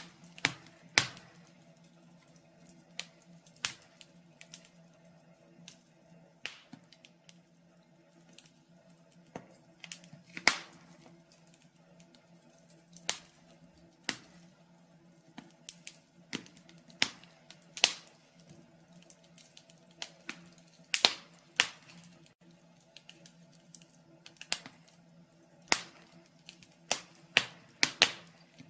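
Wood fire crackling in a fireplace: irregular sharp pops and snaps, some loud, come every second or so over a faint steady low hum.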